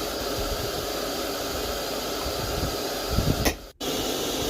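Steady rushing hiss of a running forge or heating flame in a smithy. A few low thuds come about three seconds in, then the sound cuts out briefly before the hiss comes back.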